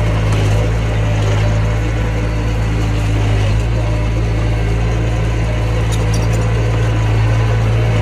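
Mini bulldozer's diesel engine running at a steady speed, with a few faint clicks about six seconds in.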